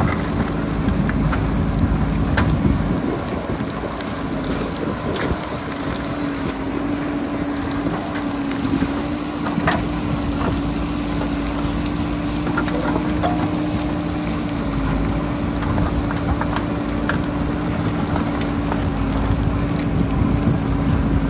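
JCB backhoe loader's diesel engine running at a steady pitch, with scattered clicks and knocks of rock and bucket, and wind buffeting the microphone.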